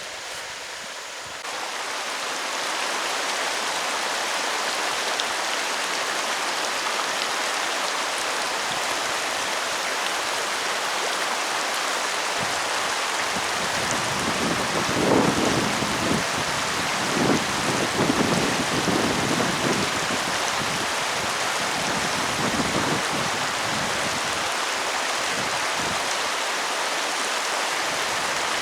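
Steady rain falling, starting suddenly about a second and a half in, with a few louder, deeper rumbles near the middle.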